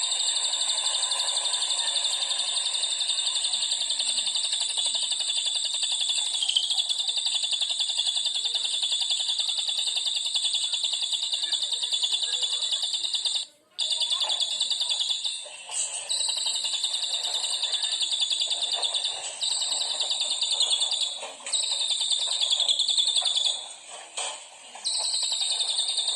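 A songbird's rapid, high-pitched continuous trill, held unbroken for many seconds, then stopping briefly about halfway and several times near the end. It is bird-song fill material of the kind used to tutor contest songbirds.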